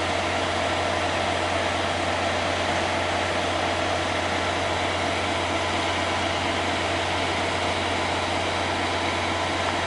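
An engine idling steadily: a constant low hum under an even, fan-like hiss that does not change.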